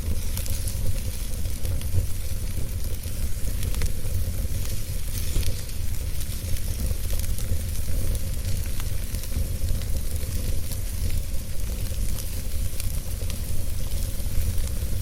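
Wood fire burning in a fireplace: a steady hiss scattered with many small crackles and pops, over a low rumble.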